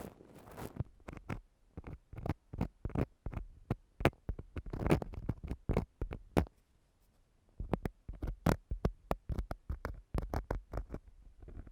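Ear-cleaning ASMR tool scratching and rubbing against a microphone in short, irregular scrapes and clicks, with a brief pause a little past halfway.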